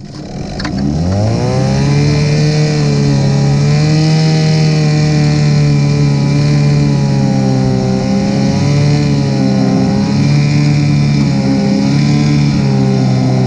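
An engine revs up about a second in, then runs steadily at high speed, its pitch wavering slightly.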